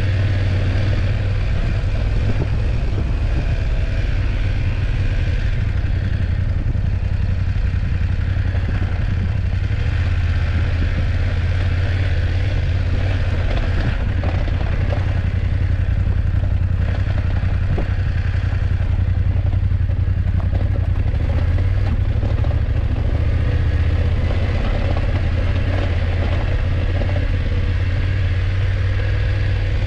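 BMW F850GS motorcycle's parallel-twin engine running steadily while riding, a constant low drone with road and rattling noise over it.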